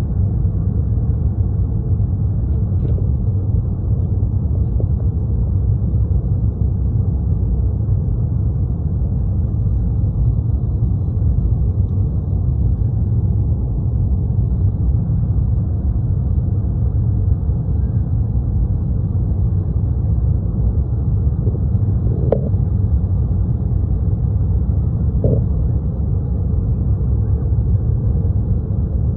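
Steady low rumble inside an airliner cabin: jet engine and airflow noise during the flight, with two faint brief sounds about two thirds of the way through.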